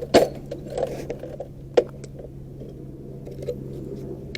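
Sockets and hand tools being handled and put away: a few sharp metallic clicks, one just after the start and another about two seconds in, over a steady low hum.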